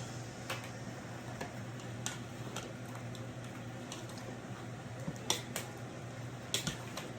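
Light kitchen-utensil clicks and taps at irregular intervals, about a dozen, the clearest past the middle, over a steady low hum.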